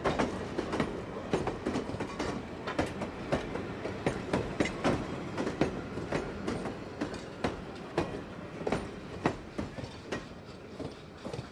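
Train passing, its wheels clicking over the rail joints: a fast, uneven run of sharp clacks over a steady rumble, growing fainter toward the end.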